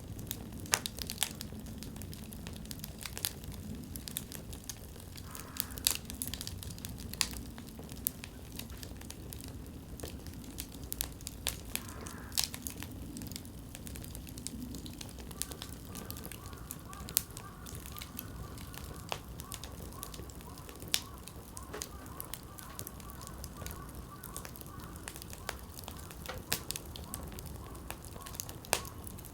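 Firewood burning in an open campfire, crackling with irregular sharp pops and snaps over the low steady rumble of the flames.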